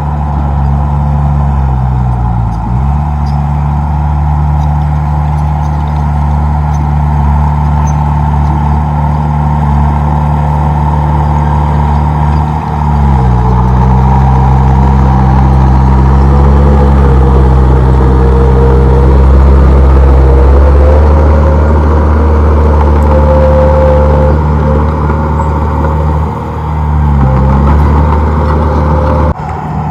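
Komatsu D31P bulldozer's diesel engine running steadily at working speed. Its pitch dips briefly three times, about two seconds in, midway and near the end, and it runs louder through the middle stretch.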